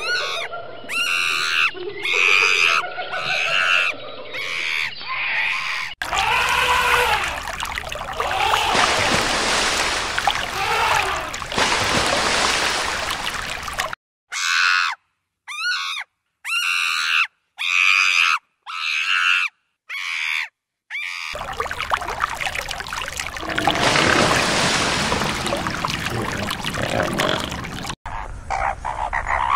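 Monkeys calling: runs of short, high-pitched squeals and shrieks with brief gaps between them, alternating with longer stretches of harsh, noisy screaming. A different animal's calls start near the end.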